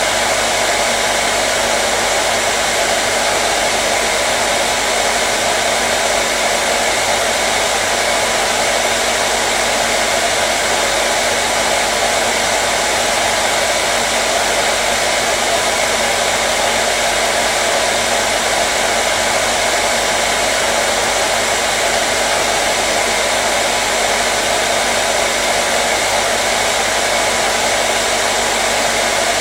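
Hair dryer running continuously: an even, steady rush of blown air with a faint motor hum.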